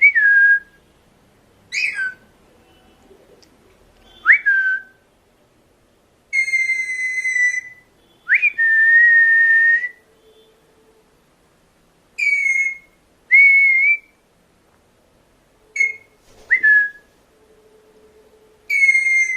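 Pet Himalayan parrots giving about ten shrill whistled calls, each a sharp upward sweep that settles onto a steady tone; most are short, two are held for about a second and a half.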